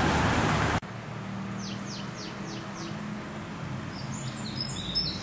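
A small bird calling: a run of about five quick falling chirps about two seconds in, then more high chirps near the end, over a quiet outdoor background. Before that, a loud steady rushing noise cuts off abruptly in the first second.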